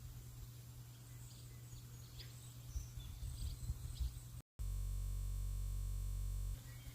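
Faint bird chirps over a low outdoor rumble, then a sudden brief dropout about four and a half seconds in, followed by a steady low hum for about two seconds.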